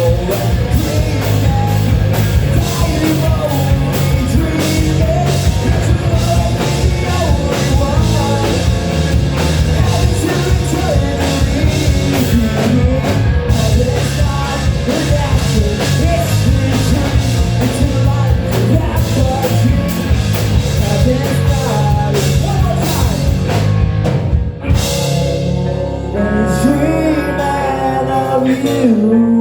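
Live rock band playing a song's outro, with drum kit, guitars and singing. About 25 seconds in the drums stop, leaving guitar chords ringing out.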